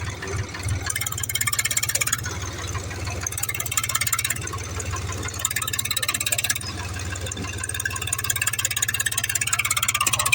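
A motor running steadily with a fast, even pulsing, as of a tractor engine working, a little louder in the second half.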